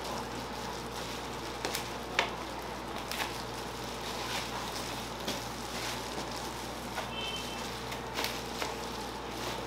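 Food frying on a hot griddle with a steady sizzle, broken by sharp clicks and clacks of cooking utensils, the loudest about two seconds in.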